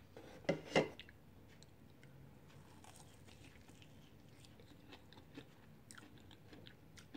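A person biting and chewing a crunchy Flamin' Hot Cheetos–crusted chicken wing: two louder crunches about half a second in, then quiet chewing with small crackles.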